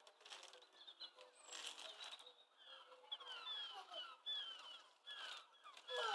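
Faint birdsong: short, falling chirps repeated many times, thickest in the second half, over light rustling.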